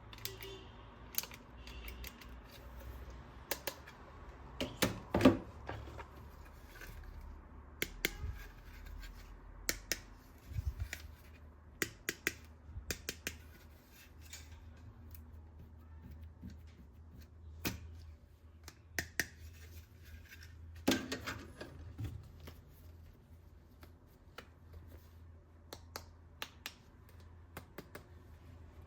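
Hard plastic toy-gun parts being handled and clicked, with irregular sharp clicks and taps and some scraping. A louder cluster of knocks comes about five seconds in and another about 21 seconds in.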